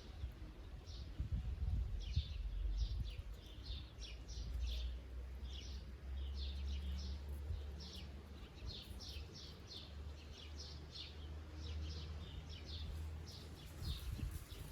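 Songbirds chirping and singing: many short, quick notes repeated throughout, over a low steady rumble.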